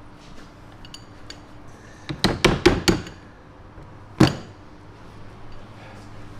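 Hard household objects knocking and clinking: a quick run of about five sharp knocks a couple of seconds in, then one more knock a second later.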